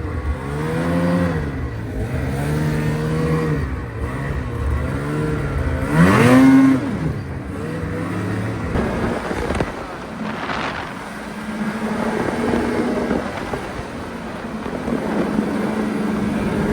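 Motor vehicle engine revving repeatedly, its pitch climbing and dropping, with one sharp loud rev about six seconds in, then settling into steadier running near the end.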